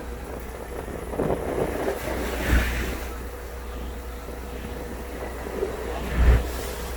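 Wind and sea noise on a deep-sea fishing boat under a steady low hum, with a few louder gusts buffeting the microphone, two of them sharp.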